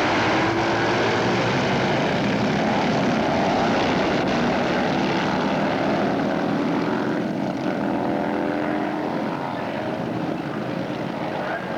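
Several motorcycle engines running at once, their pitches gliding up and down together; the sound eases off a little after about seven seconds.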